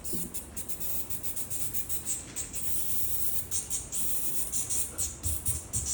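Cicadas singing: a high, shrill buzz that wavers and dips many times over, with a low rumble underneath.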